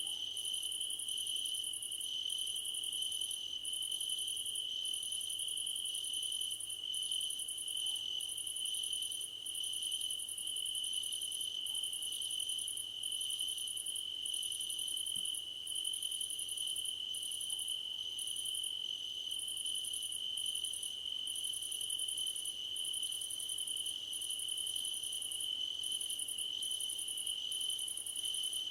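Crickets singing in a field of grass. One steady, unbroken high trill runs under a higher-pitched song that comes in pulses of about a second with short gaps.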